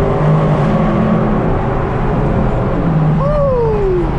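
A car's engine and exhaust running loud and steady, the pitch shifting slightly as it drives. A short falling tone sounds about three seconds in.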